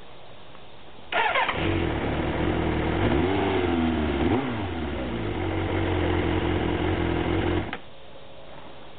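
Suzuki Bandit 400's inline four-cylinder engine, its carburettors freshly adjusted, started about a second in and catching at once. It is revved briefly around three seconds in, settles to a steady idle, then is switched off and stops abruptly near the end.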